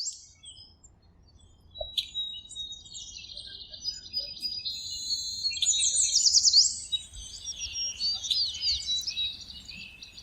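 Several birds singing and calling at once, overlapping high chirps, trills and quick up-and-down whistles, busiest in the middle of the stretch.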